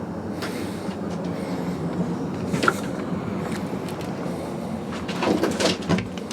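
GoldenPass Belle Époque train running on the rails, heard from inside its vintage carriage: a steady rumble with a few knocks and rattles, a sharp one about two and a half seconds in and a louder cluster a little after five seconds.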